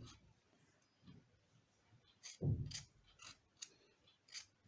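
Light clicks and taps of a wooden stick stirring thick pigment paste in a small cup, with one dull knock about two and a half seconds in.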